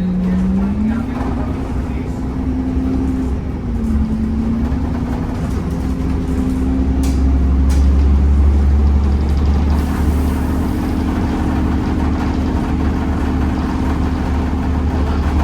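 Temsa Avenue LF 12 city bus's DAF diesel engine and ZF automatic gearbox running under way, with a pitched whine that steps up and down several times in the first half; a deep engine drone strengthens about seven seconds in as the bus pulls harder.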